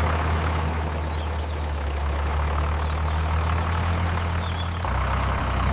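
Cartoon tractor engine sound effect: a steady low engine drone like an idling tractor, its pitch shifting slightly about five seconds in.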